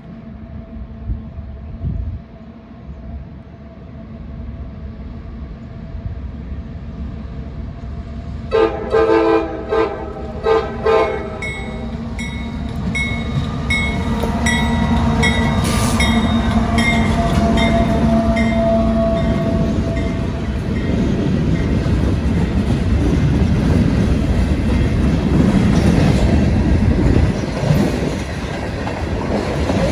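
Diesel locomotives of a CSX freight work train approaching, their engine rumble growing louder. The horn sounds in several blasts about nine to eleven seconds in, then the train passes with loud, steady engine and wheel noise.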